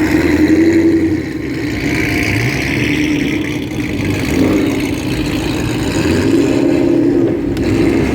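Car engine running, with its revs swelling and easing several times.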